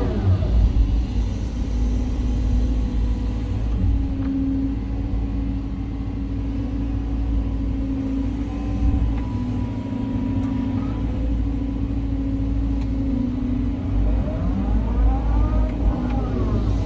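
Caterpillar 323 hydraulic excavator at work: its diesel engine runs steadily with a deep rumble. Near the end a whine glides up in pitch and back down.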